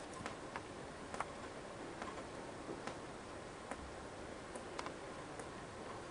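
Rainwater leaking into the house and dripping: irregular sharp drops landing about once or twice a second, over a steady hiss.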